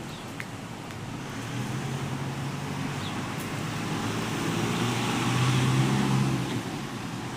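Road traffic: a motor vehicle passing, its low engine hum and tyre noise building to a peak about five to six seconds in, then fading.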